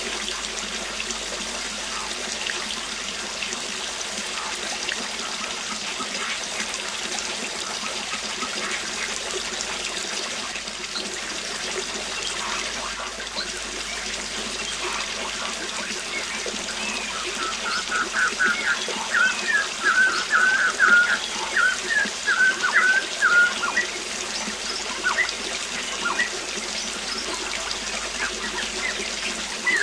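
Waterfall splashing steadily, with birds singing over it; a quick run of bird notes rises to the loudest point about two-thirds of the way through.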